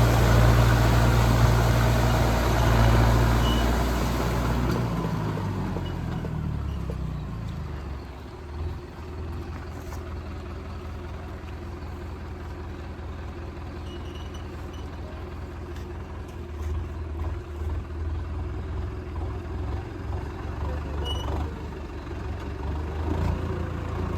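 Mahindra Arjun Novo tractor's diesel engine running loudly at high revs; about five seconds in the revs fall away, and it settles to a quieter, steady running.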